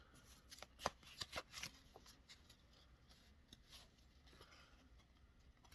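Faint rustling and clicks of a Pokémon trading card booster pack and its cards being handled. A cluster of small, sharp sounds comes in the first two seconds, then only faint rustling.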